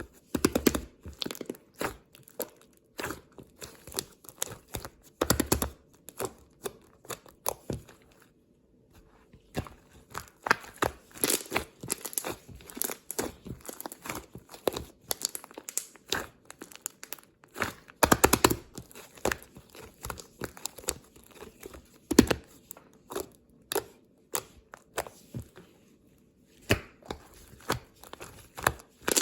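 Irregular crinkling and tearing sounds at close range, in busy clusters with a couple of short pauses.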